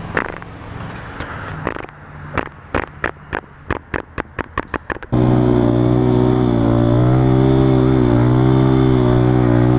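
Single-cylinder engine of a KTM 690 supermoto motorcycle. For the first five seconds it runs low and quiet under a run of sharp ticks, then it cuts in suddenly loud and holds a steady drone with a slight waver in pitch.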